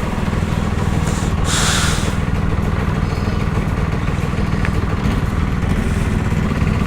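Yamaha R15 V3's 155 cc single-cylinder engine running at a steady cruise while riding, with a short rush of hiss about a second and a half in.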